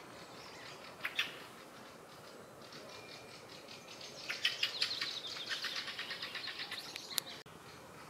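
Songbird calling: a short burst of clicks about a second in, then a rapid chattering run of harsh notes lasting about three seconds.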